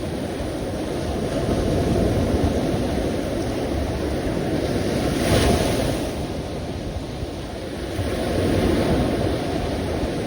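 Sea surf washing in slow swells, with one wave breaking a little over halfway through.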